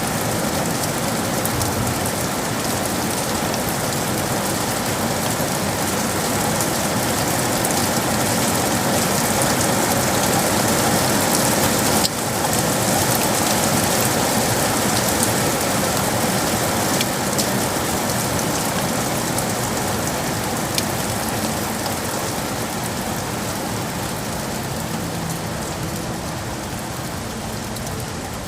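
Steady heavy rain falling on city surfaces, an even hiss with scattered individual drop ticks. There is a momentary dip in level about twelve seconds in.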